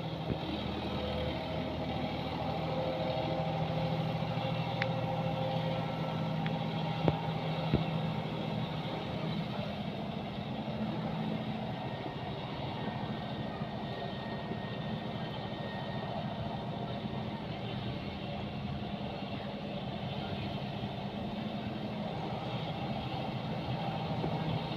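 John Deere 5210 4x4 tractor's diesel engine running steadily, with two short knocks about seven seconds in.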